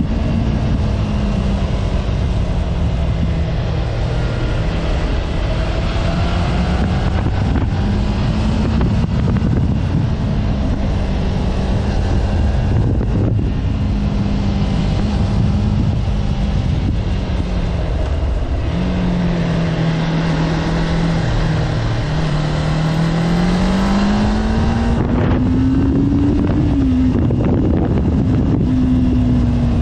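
Sport motorcycle engine running at a steady cruise, heard from the rider's seat over wind rushing on the microphone. Its pitch dips lower for a few seconds past the middle, then climbs and drops back sharply a few seconds before the end.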